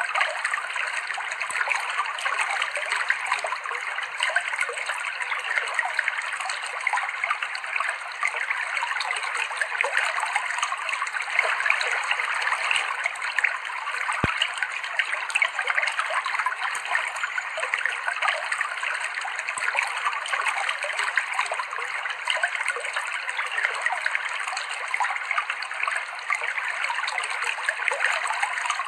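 Clear stream water flowing over rocks: a steady shallow babbling and trickling with constant small splashes and no deep rumble.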